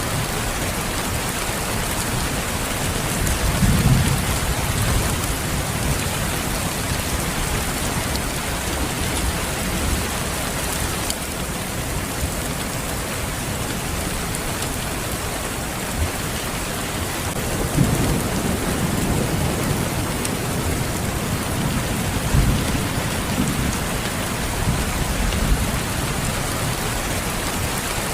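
Steady rain falling, with low rolls of thunder about four seconds in and again through the second half.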